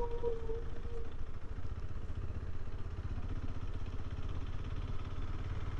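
Motorcycle engine running steadily while being ridden. A steady tone sounds over it and stops about a second in.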